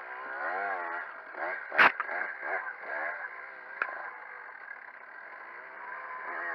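Dirt bike engines revving up and down unevenly, with one sharp bang about two seconds in and a smaller click a couple of seconds later.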